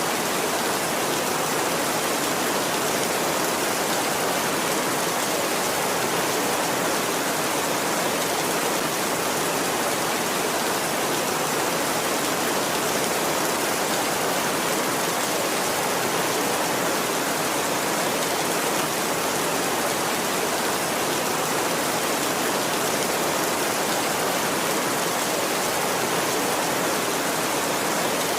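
Heavy rain falling steadily on a tin roof, an even unbroken hiss.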